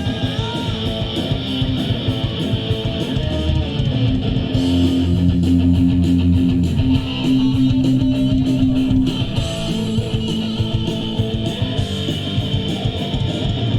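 Live punk rock band playing an instrumental passage without vocals: strummed electric guitars over bass and drums at a steady beat.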